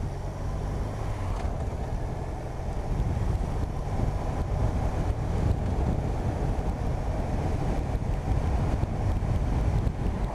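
BMW RT touring motorcycle running at road speed, engine hum mixed with wind buffeting on the microphone; the rumble grows louder about three seconds in and stays up.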